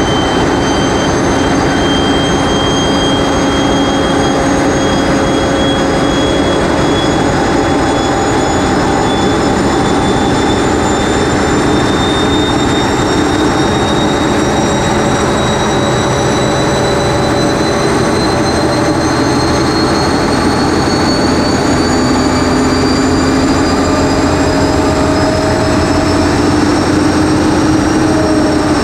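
A TEP70 passenger diesel locomotive's 16-cylinder diesel engine running loudly under load, heard from inside its engine room. A high turbocharger whine over the engine noise rises slowly and steadily in pitch.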